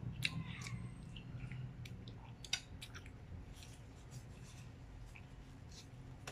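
Close-up mouth sounds of eating creamy fettuccine carbonara: chewing with scattered sharp lip and tongue clicks, one louder click about two and a half seconds in, over a steady low hum.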